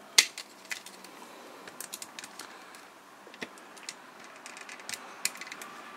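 Small plastic clicks and taps from a plastic toy robot being handled as its stiff head cockpit is prised out. One sharper click comes just after the start, followed by scattered light ticks.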